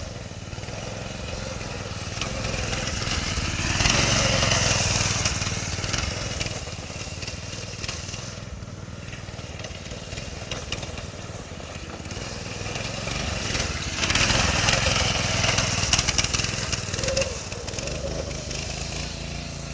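Predator 212 single-cylinder go-kart engine running, swelling louder twice, about four seconds in and again about fourteen seconds in, with a harsh noisy edge as the kart burns out, its tyre spinning and tearing up the grass.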